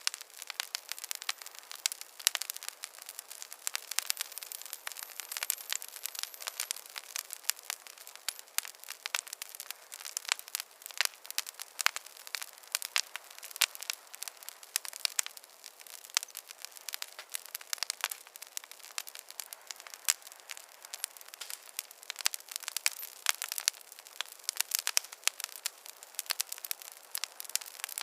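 Wood fire crackling, with a steady hiss and dense, irregular sharp pops and snaps that come in quick clusters.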